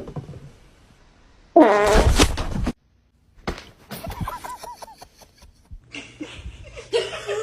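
A loud fart sound effect about one and a half seconds in, lasting about a second with a wobbling pitch, followed by fainter short clicks and warbling sounds.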